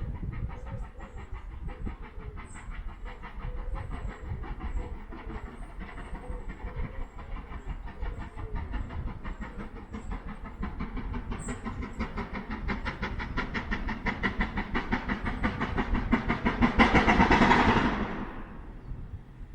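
Train running along the track: a steady low rumble and a fast rattle of wheels that builds up to a loud peak about seventeen seconds in, then falls away quickly.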